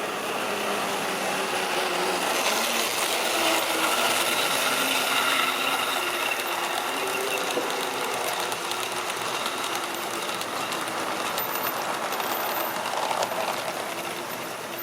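Model train running along the track: a small electric motor hums and the wheels rattle steadily over the rails. It grows louder a couple of seconds in and eases off slightly near the end.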